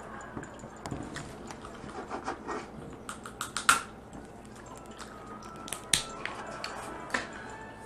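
Dungeness crab shell cracking and snapping as it is broken open for eating: a run of sharp cracks building to the loudest about halfway through, then two more single snaps later.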